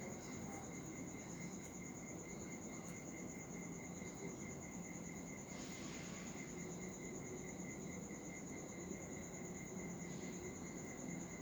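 Insects trilling steadily in a high, even, rapidly pulsed chorus, with a short rush of noise about six seconds in.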